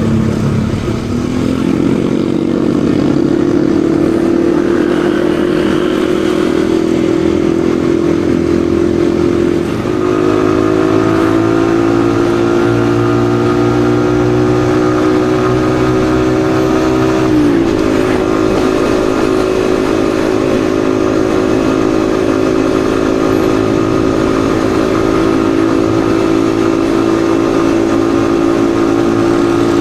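Yamaha XSR155's single-cylinder engine running under way. The engine note climbs in the first couple of seconds and then holds steady. It dips briefly about a third of the way in, and drops sharply at a gear change a little past halfway before settling into a steady cruise.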